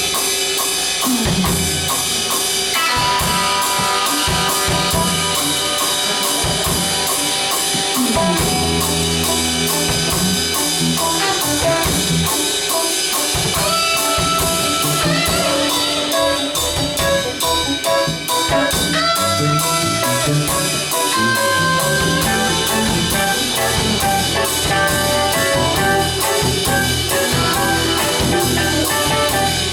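A live band playing an instrumental groove: a drum kit keeping a steady beat with close cymbal strokes, a bass line underneath and a melodic lead line on top.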